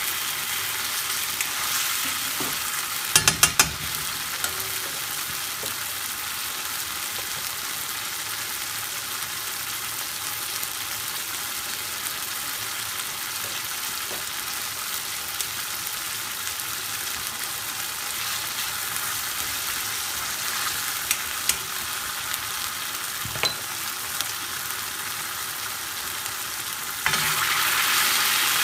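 Chicken in thick curry paste sizzling steadily in a karahi over a gas flame, with a few sharp taps about three seconds in. Near the end the sizzle gets louder as a ladle of base gravy is poured into the hot pan.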